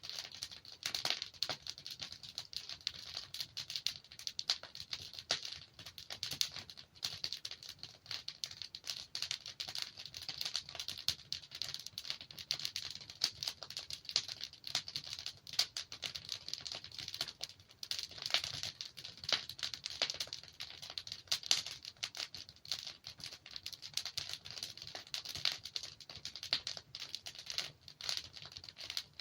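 Logs burning in a fireplace: a dense, continuous crackle of small snaps, with a few louder pops scattered through.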